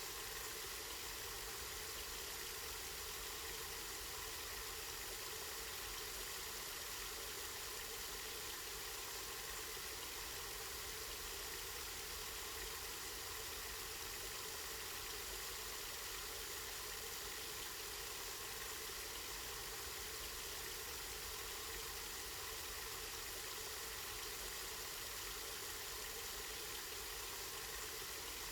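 Spring water flowing steadily, an even rushing hiss that doesn't change.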